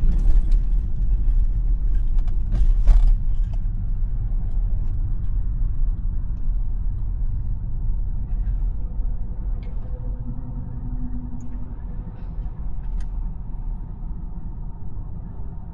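Road and tyre rumble of a Tesla driving, heard inside the cabin, growing gradually quieter over the second half. A few short clicks sound in the first three seconds.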